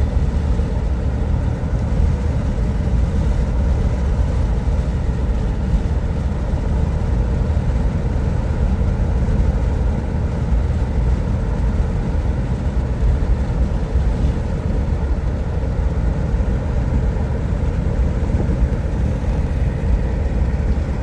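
Car driving along a highway: a steady low rumble of engine and tyre noise.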